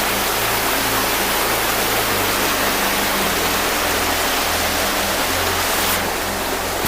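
Steady rushing of a small waterfall cascading down rocks, an even hiss close to the microphone.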